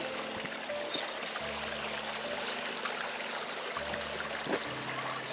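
Stream water running steadily over rocks, an even rush. Low held tones sit underneath and change every couple of seconds.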